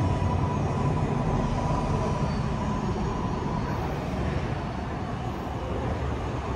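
MARTA electric rapid-transit train pulling away from the platform, its low rumble slowly fading as it recedes, with a thin high whine that dies away about two seconds in.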